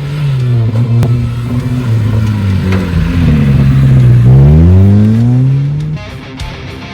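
Dacia Solenza's engine working hard, its pitch sagging and then climbing steadily as the car accelerates in gear. It cuts off abruptly about six seconds in.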